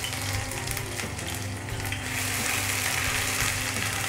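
Ginger-garlic paste sizzling steadily in hot oil in a nonstick frying pan, stirred with a wooden spatula near the end.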